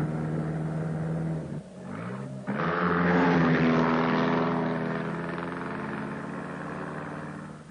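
Supercharged 4.5-litre 'Blower' Bentley's four-cylinder engine running hard. It dips briefly about two seconds in, then climbs in pitch and grows louder, fading near the end.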